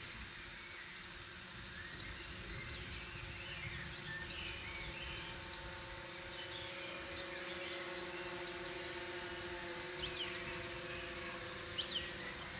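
Birds chirping and singing, with many short calls scattered throughout, over a steady low hum.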